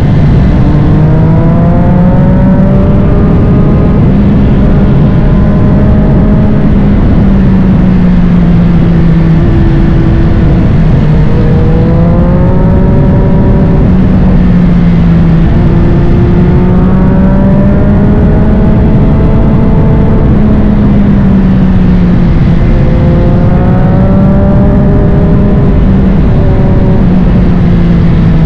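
Triumph Street Triple 765 RS inline-three engine breathing through a Spark Grid-O full exhaust, riding hard: the pitch climbs under throttle, then falls back as the rider shifts or rolls off, several times over.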